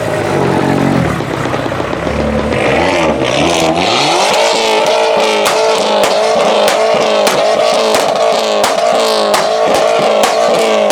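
Car engine revving: lower revs for the first few seconds, then rising about four seconds in and held high with a wavering pitch. Sharp cracks sound over it.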